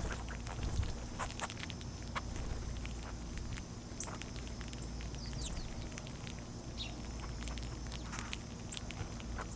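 Small backyard birds at a feeder giving scattered short, downward-sliding chip notes, with light irregular ticking and pattering.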